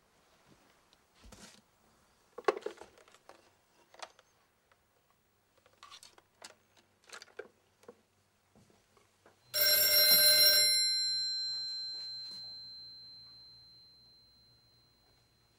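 A metal bell rings rapidly for about a second, its clear high tone then ringing on and fading away over several seconds. Before it come a few faint knocks and clicks of objects being handled.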